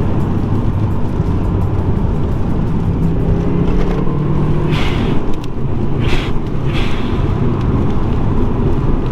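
Subaru Impreza's turbocharged flat-four engine running under way, with steady road rumble. The engine note climbs and then drops just before halfway, and three short hissing bursts follow over the next two seconds.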